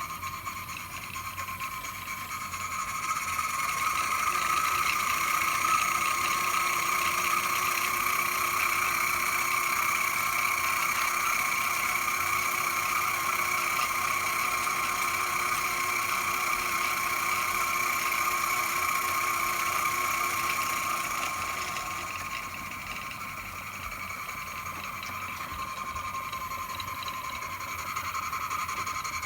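Miniature live steam engine running and driving belt-driven workshop accessories: a steady mechanical whirr. It grows louder about three seconds in and drops back a little over twenty seconds in.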